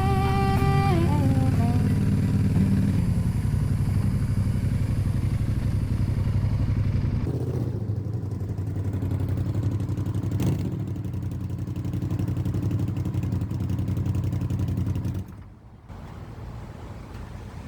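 Honda Varadero XL1000V's V-twin engine running steadily, heard from on the bike, as the tail of a blues song fades out. About fifteen seconds in the engine sound drops away sharply, leaving a quieter background.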